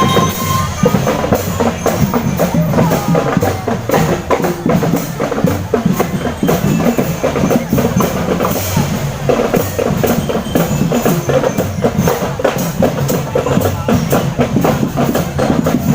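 Marching drum band playing: many drums struck in a fast, dense rhythm.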